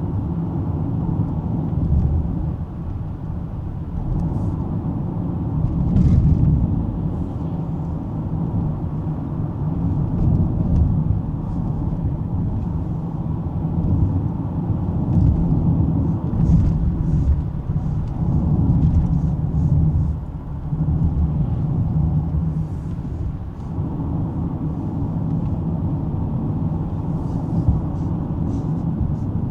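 Steady low rumble of a 2005 Lexus ES330 on the move, heard inside the cabin: road and engine noise swelling and easing a little with the driving.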